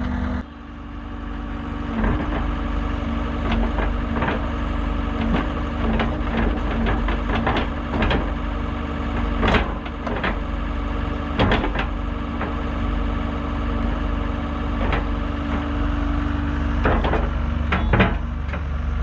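Skid steer engine running steadily under work, with repeated sharp clanks and knocks from the machine and its blade, several of them in quick clusters.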